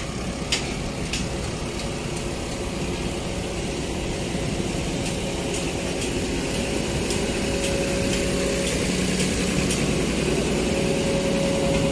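Heavy diesel machinery engine running steadily at low revs, a little louder toward the end, with a few light ticks.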